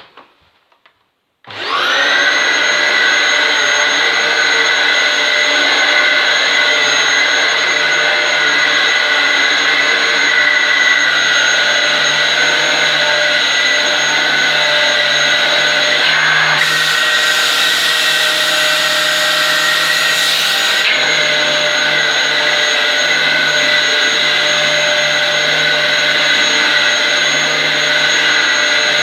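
Dyson DC07 upright vacuum cleaner switched on about a second and a half in, its motor spinning up with a rising whine and then running steadily: a loud, even whine over rushing air. A brighter hiss joins in between about 16 and 21 seconds in.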